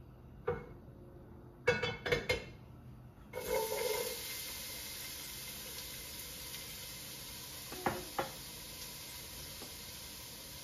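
A few light clinks of kitchen utensils and dishes, then, about three and a half seconds in, a sudden sizzle that goes on steadily: chopped onion going into hot canola oil in the soup pot to sauté.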